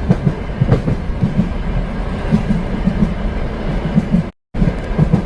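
Train running along the track: a steady rumble with a repeating low clatter from the wheels. It cuts out for a moment about four seconds in.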